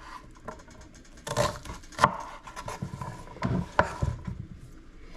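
Kitchen knife cutting a white onion into big chunks on a cutting board: irregular knocks of the blade hitting the board, with rubbing and scraping between cuts. The sharpest knocks come about a second and a half and two seconds in, and again near four seconds.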